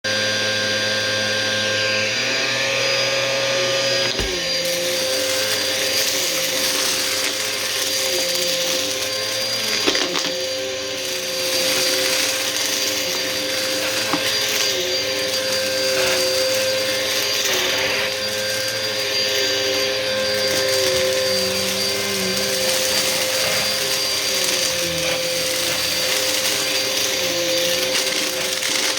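Bissell vacuum cleaner running steadily with a constant motor whine. The sound changes character about four seconds in, with a single knock.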